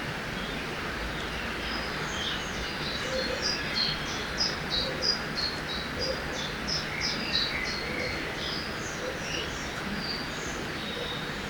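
Riverside forest ambience: the steady rush of a river under birdsong, with a quick run of short, high chirps starting about two seconds in and thinning out near the end.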